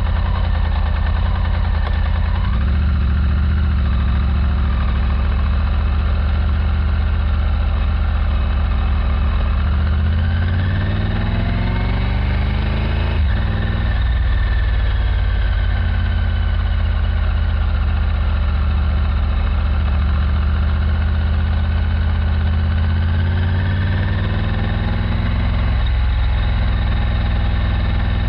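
Triumph Tiger 900's three-cylinder engine running under way. About ten seconds in the revs climb for a few seconds, then drop suddenly as it shifts up a gear, and the engine settles to a steady pull; the pitch changes again near the end.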